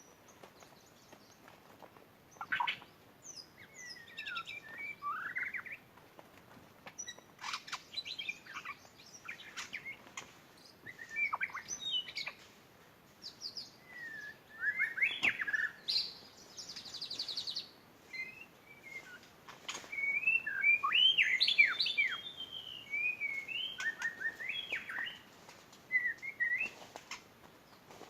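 White-rumped shama singing: a long run of varied whistled phrases with quick rising and falling notes, a fast trill partway through, and sharp clicks between phrases, loudest in the second half.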